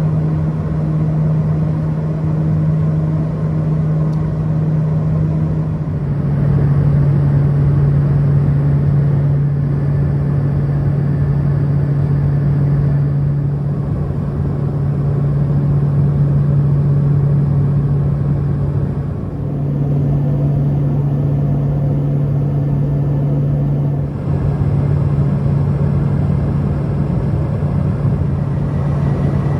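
Steady engine and propeller drone inside the cabin of a small propeller plane in flight, a strong low hum over a wide rumble. The hum shifts slightly in pitch a few times.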